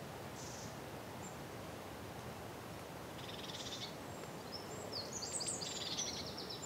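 Outdoor field ambience: a steady low background hiss and rumble, with a small bird calling high overhead. There is a short chirp near the start, a buzzy trill about three seconds in, and then a run of quick, high, downward-sweeping song notes in the last couple of seconds.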